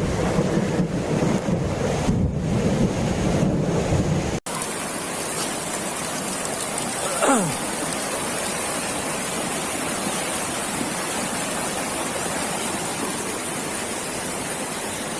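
Floodwater rushing past as a steady noise of water. The sound cuts abruptly about four seconds in to another stretch of the same steady rush. A brief falling tone sounds about seven seconds in.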